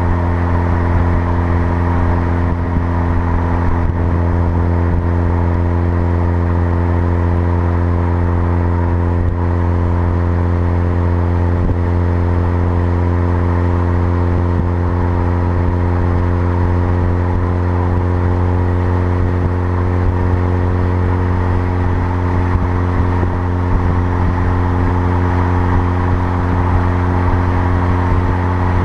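Mazda RX-8's street-ported two-rotor Wankel engine idling steadily through a Japspeed cat-back exhaust, still warming up after a cold start. It is a loud, even idle with a deep steady note.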